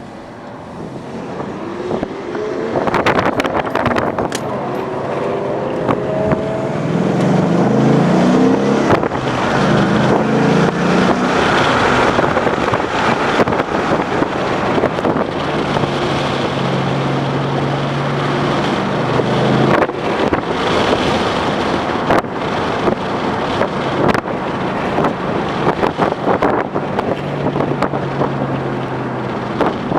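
2011 Ford Mustang GT's 5.0-litre V8 accelerating hard, its pitch climbing and dropping back at each shift in the first third, then running at a steadier pitch, over a loud rushing noise.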